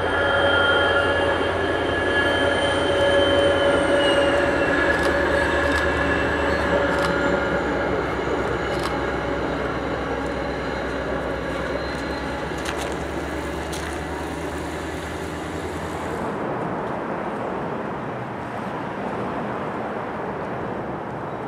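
NJ Transit equipment-move train, a GP40-2 diesel locomotive hauling passenger cars, rolling past: a steady diesel engine rumble with whining tones that dip slightly in pitch about four seconds in, and scattered sharp clicks from the wheels. About sixteen seconds in the train sound cuts off abruptly, leaving a quieter steady outdoor hum.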